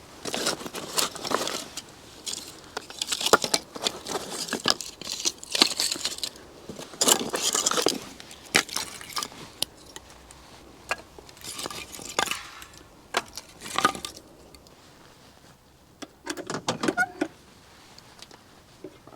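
Small metal objects clinking and jangling amid rustling as camping gear is handled, in irregular bursts of clatter with sharp clicks, easing off in the second half with one more short cluster of clicks.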